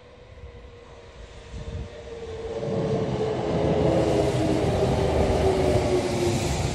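Kintetsu commuter train passing through the station without stopping. Its rumble of wheels on rail swells as it draws alongside about two and a half seconds in, then stays loud, with a thin whine that slowly falls in pitch.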